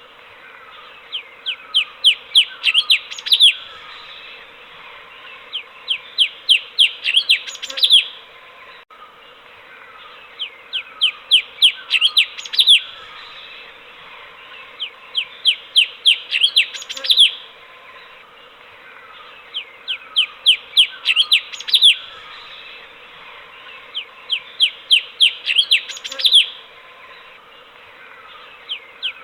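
Cucak cungkok, a bulbul, singing a repeated phrase: a quick run of sharp, falling whistled notes that grows louder toward its end, given about every four to five seconds, six times.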